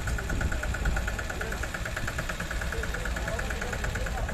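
An engine idling steadily with a low rumble, under a fast, regular, high-pitched pulsing.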